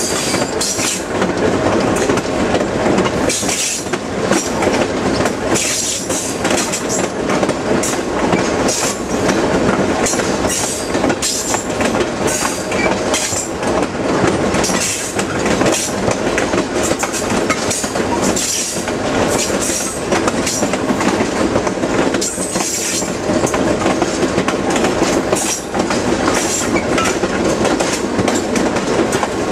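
Passenger train running along the track, heard from outside the cars: a steady rumble of wheels on rail with frequent sharp clickety-clack strikes as the wheels pass over rail joints.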